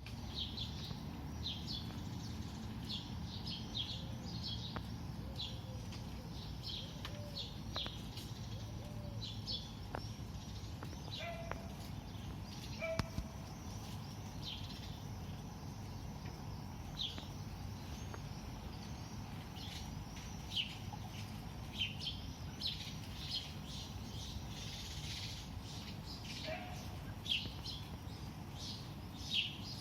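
Morning birdsong: many short, high chirps from small birds, repeated irregularly throughout, over a steady low background rumble.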